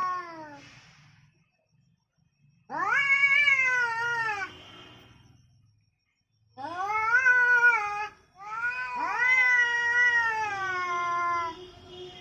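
Angry domestic cat yowling: long, drawn-out calls that rise and then slowly fall, three of them in a row after the tail of an earlier one, with short silences between.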